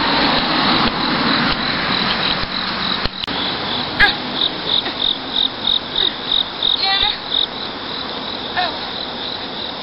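Cricket chirping: a run of evenly spaced high pulses, about three to four a second, for roughly three seconds around the middle, over a steady hiss that fades a little.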